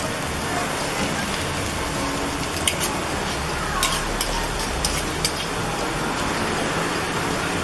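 Canned-mackerel fish balls deep-frying in oil in a wok: a steady sizzle, with a few sharp crackles and pops in the middle.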